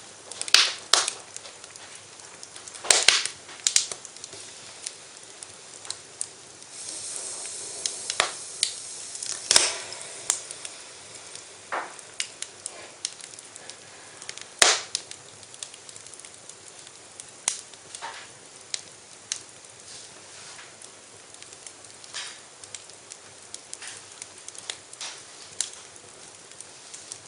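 Wood fire in a fireplace, crackling with sharp irregular pops and snaps. A stretch of hissing comes about seven seconds in and lasts a few seconds.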